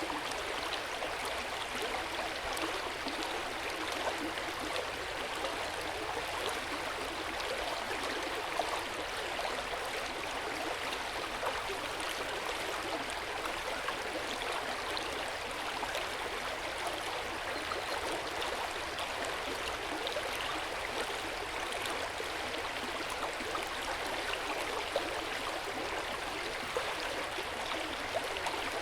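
Hot-spring water pouring steadily into an outdoor bath, a continuous splashing and trickling with small irregular flickers.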